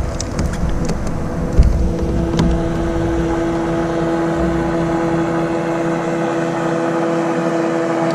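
Steady drone of a motorboat engine on the water, holding an even pitch. In the first couple of seconds there are a few knocks and low rumble.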